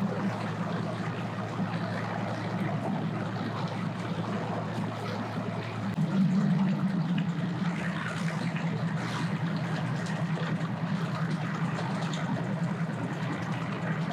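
Boat motors running at low speed, a steady low drone over a wash of water and outdoor noise; the drone gets louder and a little higher about six seconds in.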